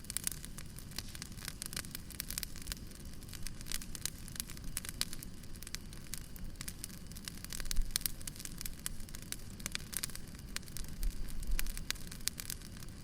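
Wood fire burning, with dense irregular crackles and snaps over a steady low rumble, and a few louder pops about eight seconds in and again near eleven to twelve seconds.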